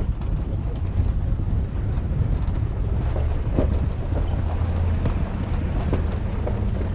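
Pickup truck crawling over a rocky, gravelly mountain road: a steady low engine and drivetrain rumble, with tyres crunching over loose rock and scattered short knocks.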